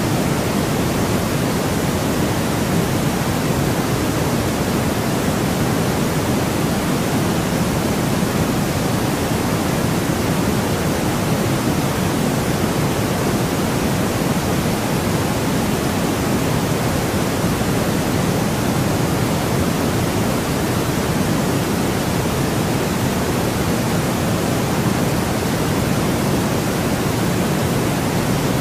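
Steady, unchanging white noise: an even rushing hiss with no breaks or events.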